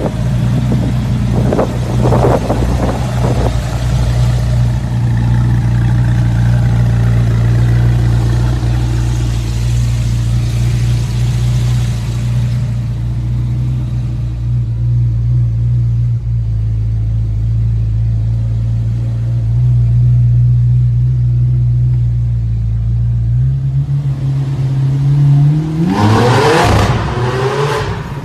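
Zenvo supercar's engine idling steadily through a loud exhaust, its pitch stepping up briefly near the end before a few quick rising revs.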